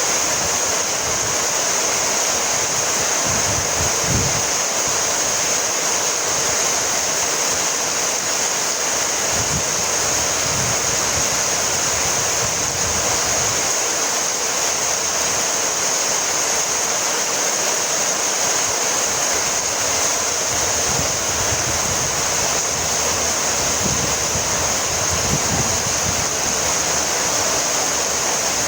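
Heavy rain falling steadily as an even hiss, with a few soft low thuds now and then.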